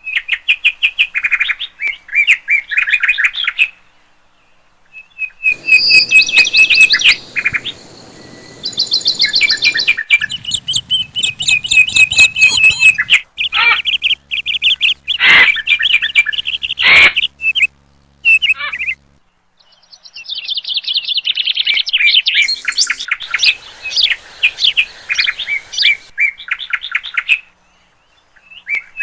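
Rapid, high chirping and trilling calls of small songbirds, played as lure calls to attract wild birds. The calls come as a string of separate recordings spliced one after another, each block with its own call pattern and background hiss.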